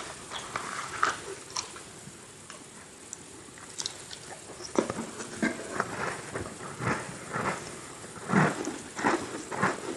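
Close-miked chewing of crunchy Oreo sandwich cookies. Faint scattered crackles at first, then from about halfway through a steady run of loud crunching chews, about two a second.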